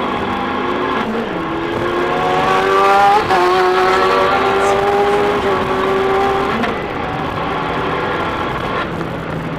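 Fiat 500 Abarth's 1.4-litre turbocharged four-cylinder engine heard from inside the cabin, rising in pitch as it accelerates, then dropping suddenly about three seconds in at an upshift. It pulls steadily in the next gear until about seven seconds in, when the revving note stops and a lower engine note follows.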